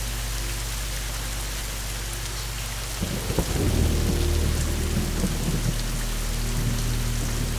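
Steady rain falling, with a low roll of thunder that starts about three seconds in and rumbles on.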